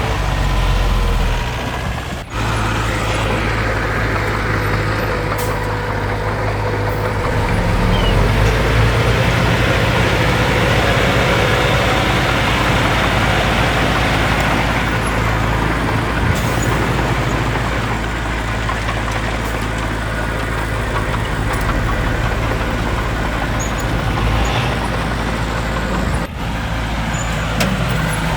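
Heavy diesel engines of dump trucks and a bulldozer running steadily at a landfill site, with two abrupt breaks, one a couple of seconds in and one near the end.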